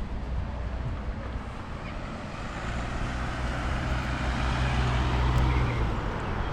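A road vehicle passing by, its engine hum and tyre noise growing louder to a peak about five seconds in, then easing off.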